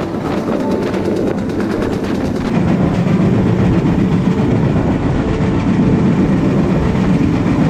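Passenger train running along the line, heard from its open carriage window: a steady rumble of wheels on the rails, a little louder from about two and a half seconds in.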